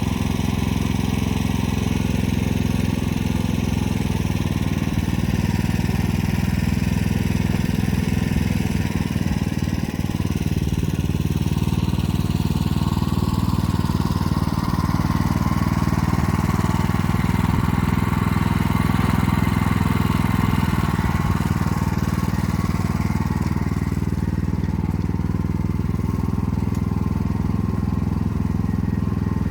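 Motor Sich walk-behind tractor engine running steadily while pulling an arrow-type hiller through the rows. Its pitch shifts a little a few times.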